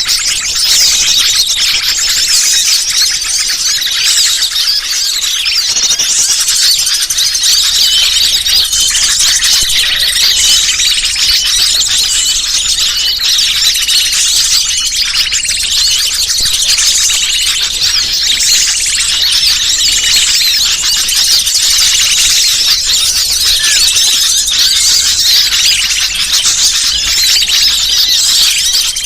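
A loud, unbroken chorus of many small birds chirping and twittering at high pitch, overlapping into a busy din: a bird-luring (pikat) recording made to draw wild birds in.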